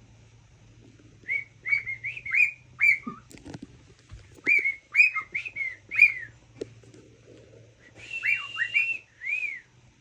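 Cockatiel whistling a string of short chirpy notes that rise and fall, in three runs with brief pauses, the last holding one long note under the chirps.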